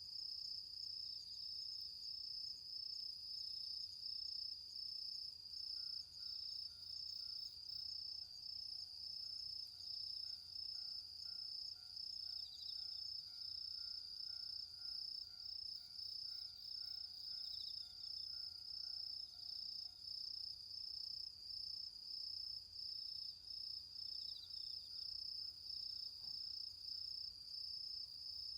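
Autumn insects singing: one high, continuous trill that pulses at an even rhythm, with a fainter, lower steady tone joining from about six to twenty seconds in.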